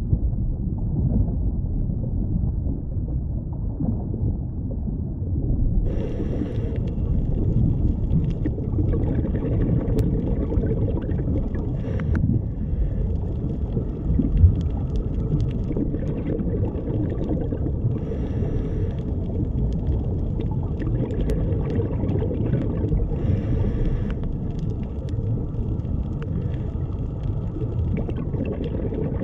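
Underwater ambience: a steady, muffled low rumble of water, with faint crackling clicks joining about six seconds in.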